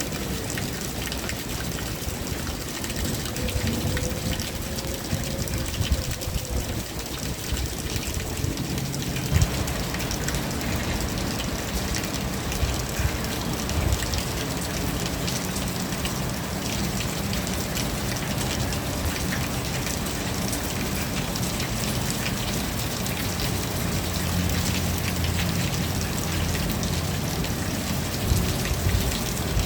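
Steady rain falling on surfaces: an even hiss with scattered drop patter. About nine seconds in it fills out and grows fuller in the low end.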